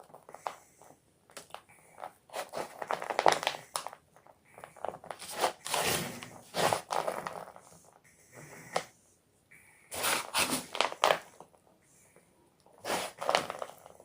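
Block of gym chalk being crushed, crunching and crumbling in four bursts a few seconds apart, with quieter pauses between them.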